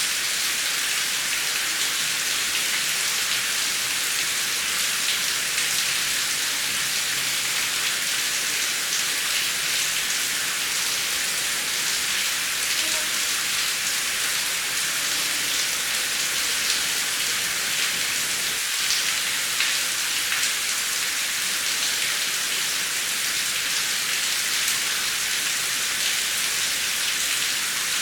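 Heavy rain falling steadily, a dense hiss of drops with no thunder.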